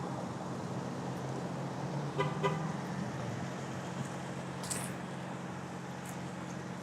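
Steady low hum of an idling car engine, with two quick short horn beeps about two seconds in and a few faint clicks later on.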